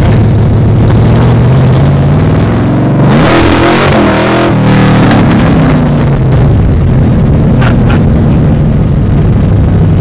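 Ford 302 HO V8 in a 1960 MGA roadster, heard from the open cockpit while driving: the engine revs up hard about two seconds in, with a rush of noise as it peaks, then eases back to a steady lower pitch.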